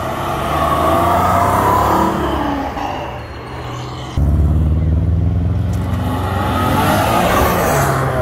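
Two sports cars accelerating away one after another: a Porsche 911 revving as it pulls out, then, after an abrupt jump about four seconds in, a BMW M2's turbocharged straight-six running steadily and building revs as it drives off.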